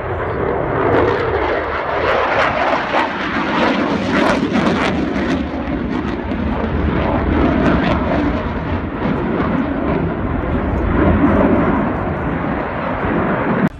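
A fixed-wing aircraft's engines running loud and steady as it flies a display, with a crackling edge to the noise.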